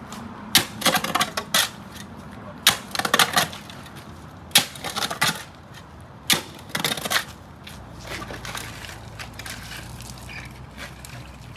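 Bursts of sharp clattering and clinking, like metal tools or gear being handled and set down, through the first seven seconds or so. A low steady hum sets in near the end.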